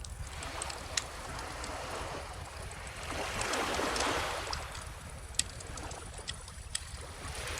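Small ocean waves washing in, one swell building and fading about four seconds in, with a wood fire crackling and giving sharp pops over it.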